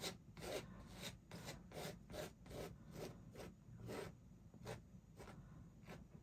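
Paintbrush stroking and scrubbing paint onto a canvas: faint, short, scratchy strokes, about two or three a second.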